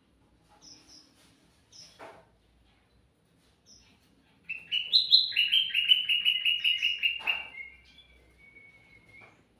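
Kutilang mas, a bulbul, singing: a few soft high chirps, then about halfway in a loud, rapid run of repeated notes lasting nearly three seconds, trailing off into a softer warble.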